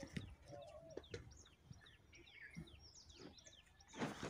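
Faint chirping of small birds: many short, high, falling chirps, scattered through. A brief louder noise comes near the end.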